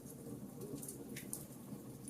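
Campfire burning: a steady low rumble of flames with scattered sharp crackles and pops from the burning wood, one louder pop a little past a second in.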